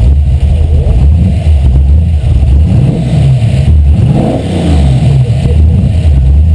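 Carbureted 5.0 V8 running on its first start, idling with a lumpy lope, its speed rising and dipping a few seconds in.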